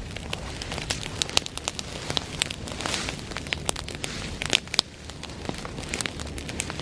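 Bonfire of dry grass burning, with irregular sharp crackles and pops over a steady hiss of flame.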